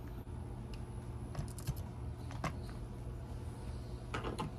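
Small clicks and knocks of hands working the Protosounds sound chip back into its socket on the locomotive's circuit board: a few at once about a second and a half in, one more shortly after, and a quick cluster near the end, over a steady low hum.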